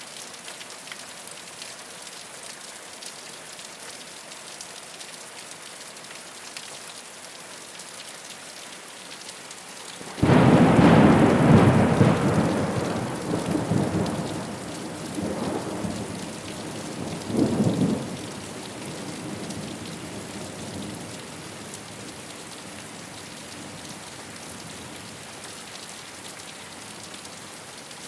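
Steady rain falling on a rooftop. About ten seconds in, a sudden clap of thunder breaks out and rumbles on, swelling twice more before dying away into the rain after about ten seconds.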